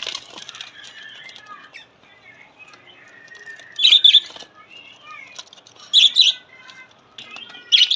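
Small pet parrots (budgies and lovebirds) chattering steadily, with loud shrill double calls about four seconds in, about six seconds in and again near the end.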